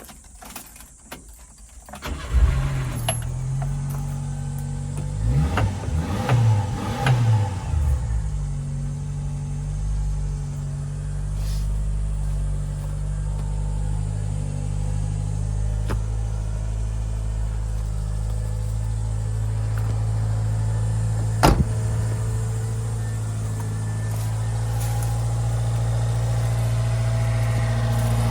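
1995 Subaru Sambar kei truck's 658 cc four-cylinder engine starting about two seconds in, revved up and down three times, then idling steadily. A single sharp click sounds about two-thirds of the way through.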